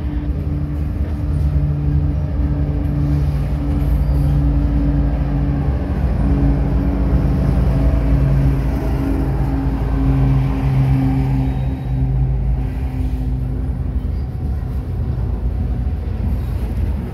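Freight train rolling past: a steady rumble of hopper cars and boxcars on the rails, joined by the drone of a mid-train CSX diesel locomotive. The engine drone is loudest a little past halfway through, as the locomotive goes by, then the cars keep rolling.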